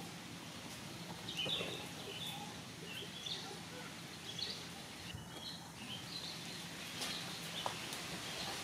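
Quiet outdoor ambience: birds give short, high chirps every second or so over a steady low hum.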